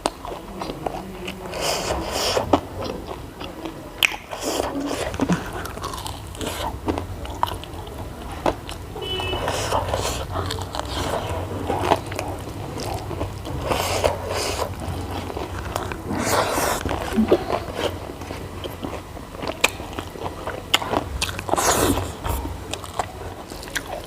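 A person chewing and biting food close to the microphone, with crunchy bites and clicks now and then at an irregular pace.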